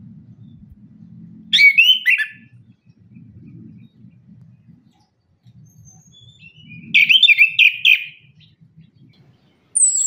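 Orange-headed thrush singing: two short, quick warbled phrases about five seconds apart, the second longer, and a high thin note right at the end.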